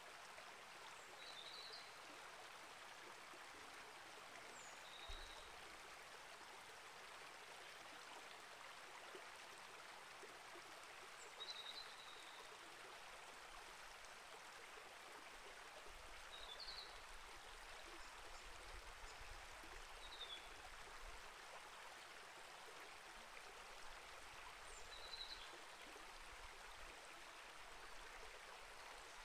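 A small rainforest creek flowing, a faint steady rush of water, with short high bird chirps every few seconds.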